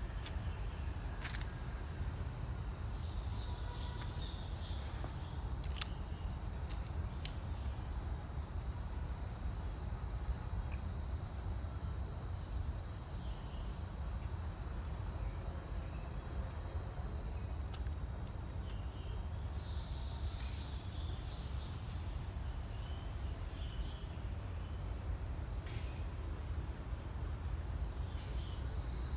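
Insects calling in one continuous, steady high-pitched trill over a constant low background rumble, with a few faint clicks.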